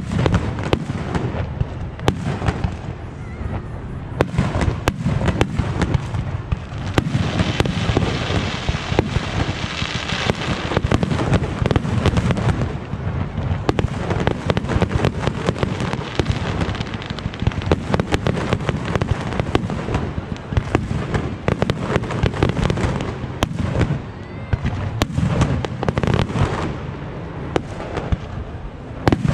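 Fireworks going off in quick succession: a dense, continuous stream of pops and bangs, with a stretch of hissing crackle about seven to eleven seconds in.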